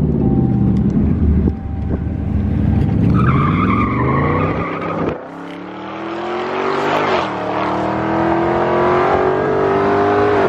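Car engine revving hard under acceleration, its pitch dropping and then climbing, with tires squealing about three to four seconds in. After a sudden drop in the engine sound about five seconds in, it pulls again in a long, steadily rising run.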